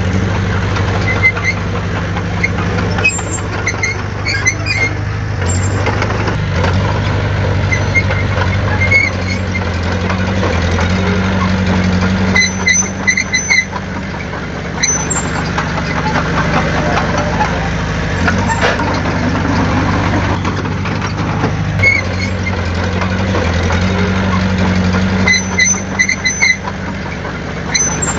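Diesel engine of heavy earthmoving machinery running steadily, its pitch shifting now and then with the load. Clusters of short, high squeaking chirps come at intervals, strongest about twelve seconds in and again near the end.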